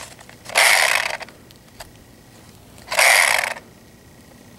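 A chainsaw's pull-start cord yanked twice, each pull a short rasping whirr of the recoil starter, and the engine does not catch: it won't start.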